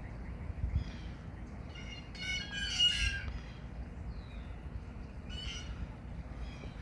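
A bird calling outdoors: one longer call about two seconds in and a shorter call about five seconds in, over a steady low rumble.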